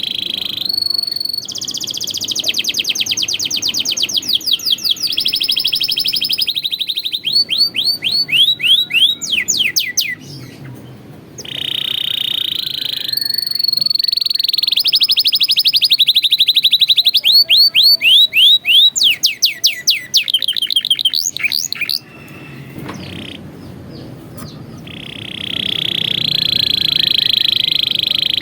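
Canary singing: long rolling trills and fast runs of repeated sweeping notes, phrase after phrase, with a couple of short pauses.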